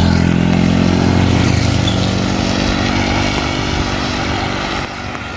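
A motor vehicle's engine passing close and fading away, over a steady hiss of rain.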